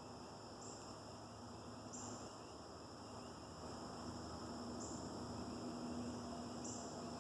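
Insects, crickets or similar, trilling faintly in a steady high-pitched chorus. A higher buzz joins in for about a second at a time, several times. A faint low hum lies underneath.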